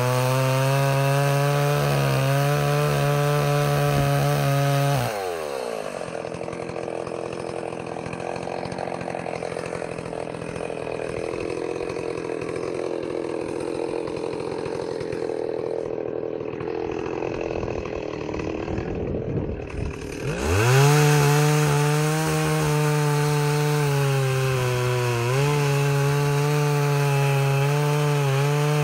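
Stihl 038 Magnum two-stroke chainsaw running at high revs. About five seconds in it drops to idle, then about twenty seconds in it revs back up and holds high revs to the end, with a brief dip near the end.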